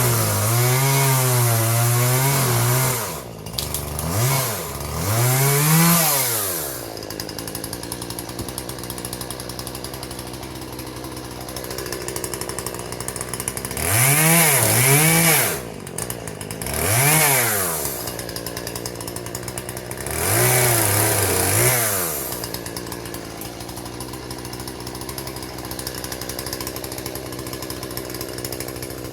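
Husqvarna 120 two-stroke chainsaw cutting limbs off a log: the engine is throttled up in five short bursts, its pitch sagging under load in the wood and recovering, and drops back to a steady idle between cuts and through the last several seconds.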